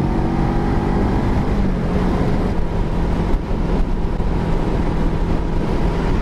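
Voge 525 R motorcycle's parallel-twin engine running at highway speed, heard from on board with wind noise. About two seconds in, the engine note drops as the revs fall, then holds steady.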